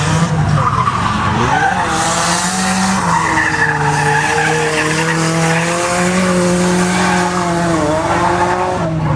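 A car drifting: its engine revs rise and fall over a continuous tyre screech.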